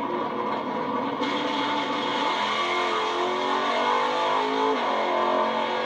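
Drag-racing engines running steadily, their pitch sliding a few times.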